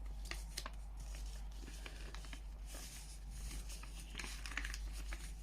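A sheet of paper being handled and creased while a paper airplane is folded: scattered light rustles and crinkles, over a steady low hum.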